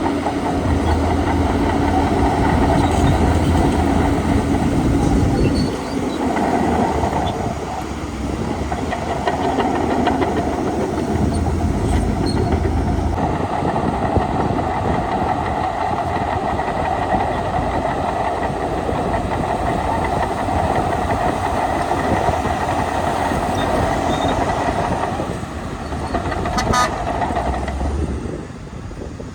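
Heavy diesel earthmoving machinery working: a steady engine drone with a sustained whine over it, easing off near the end.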